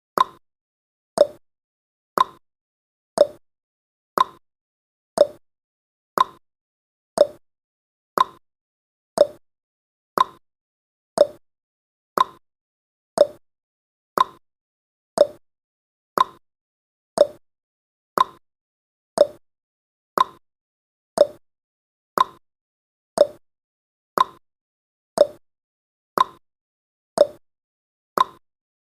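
A countdown timer's tick sound effect: a short tick once every second, evenly spaced.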